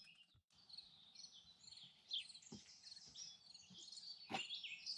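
Faint birdsong: several small birds chirping and twittering in short, overlapping calls, with a couple of soft knocks.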